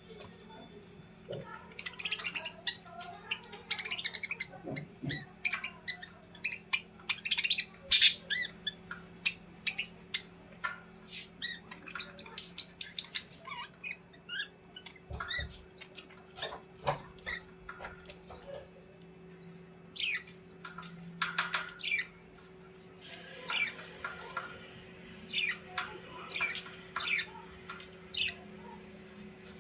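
A bird squawking and chirping in many short, sharp calls at an irregular pace, over a steady low hum.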